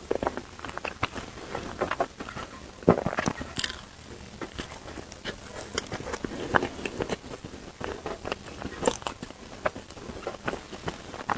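Close-miked eating: a person biting and chewing food, with irregular crunches and clicks.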